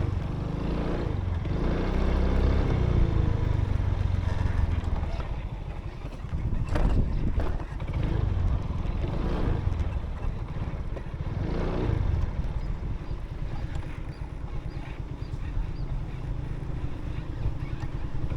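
Motorbike engine running while being ridden, under a steady low rumble.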